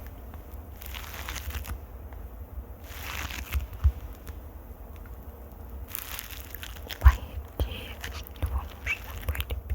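Close-miked ASMR scratching and rubbing on a microphone, coming in bursts of hiss over a low handling rumble, with scattered clicks and a sharp knock about seven seconds in.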